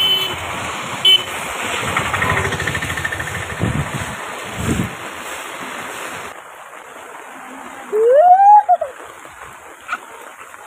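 Steady noise of heavy rain and vehicles on a wet street, with a short car-horn toot at the start. About six seconds in the noise cuts off abruptly to a quieter background, and a loud tone rises and falls in pitch near the end.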